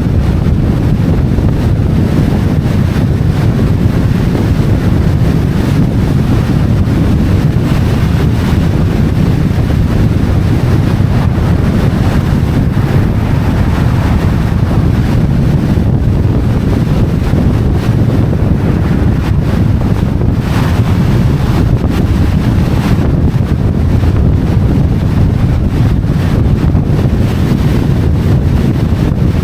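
Wind buffeting the microphone: a loud, steady low rumble that covers the street sound.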